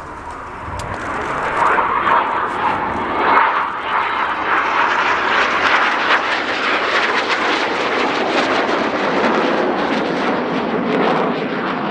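Red Arrows BAE Hawk T1 jets flying past. The jet noise builds over the first two seconds, stays loud, and grows duller toward the end as the aircraft move away.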